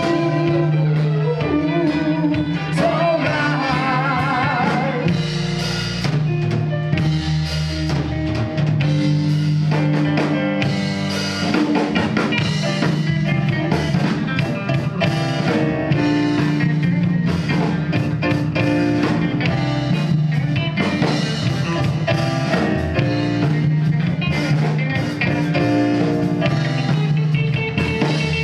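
Live rock band playing a blues-tinged instrumental passage: drum kit, bass and electric guitar, with a wavering lead line about four seconds in.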